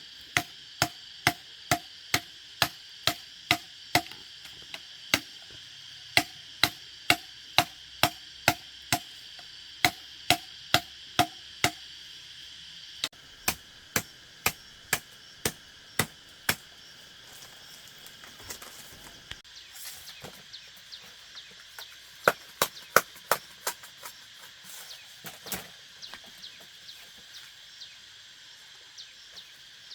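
Rhythmic chopping strokes on wood, about two a second, each with a short ring. After a break a few more strokes follow, then scattered lighter knocks. A steady insect drone runs underneath.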